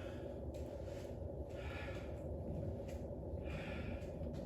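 A man breathing hard after exercise, three heavy breaths about two seconds apart, over a steady low background hum.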